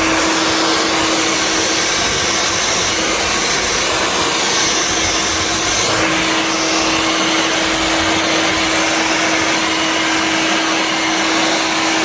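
Hair dryer blowing steadily, a loud rush of air with a constant motor hum.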